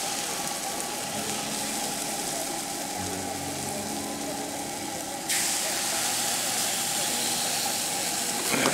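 Pancake batter sizzling on an oiled cast-iron griddle over a camp stove, a steady hiss that gets louder about five seconds in as another pancake is poured.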